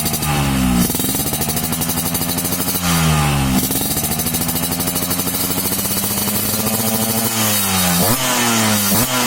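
Yamaha RX-King two-stroke single-cylinder engine running through a stainless racing exhaust, idling with a rattly beat. The throttle is blipped twice, near the start and about three seconds in, then given a rapid run of short blips about every half second near the end.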